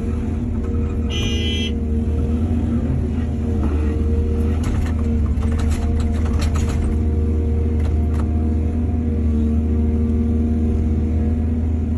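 Excavator's diesel engine running steadily under load, with a brief high whine about a second in and a run of knocks and clatters around the middle.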